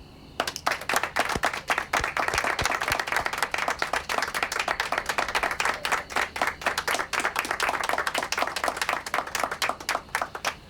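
A group of people clapping in applause. It starts about half a second in, keeps up steadily and thins out to a few last claps near the end.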